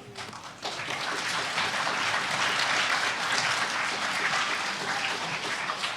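An audience applauding in a hall. The clapping starts about half a second in, swells, then begins to fade near the end.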